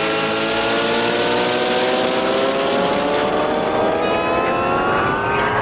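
Cartoon hot-rod engine revving, its pitch climbing slowly and steadily.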